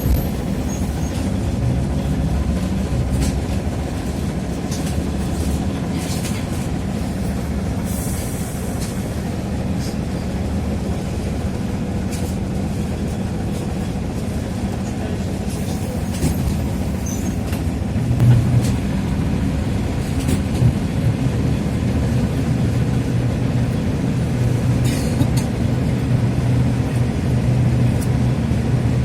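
TrolZa-5275.05 Optima trolleybus with its DK-213A traction motor and Ishimbay drive axle, heard from inside the cabin while under way: a steady low drone with a few scattered knocks and clicks. The drone's low tone grows stronger about two-thirds of the way in.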